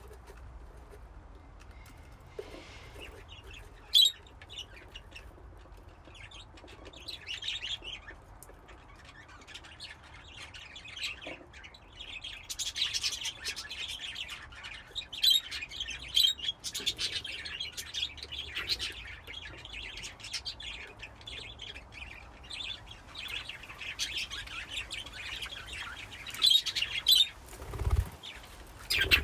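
A flock of budgerigars chirping and warbling: sparse calls at first, then many birds chattering at once from about twelve seconds in. Several sharp clicks stand out among the calls, and there is a low thump near the end.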